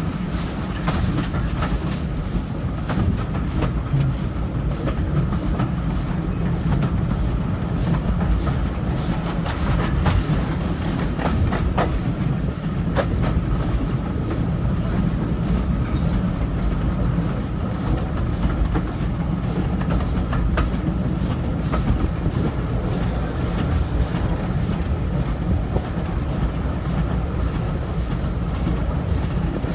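Stanier Black 5 4-6-0 steam locomotive hauling a passenger train at speed, heard from an open carriage window. A steady heavy rumble of the carriages is overlaid with a fast, even run of beats from the engine's exhaust and the wheels clicking over rail joints.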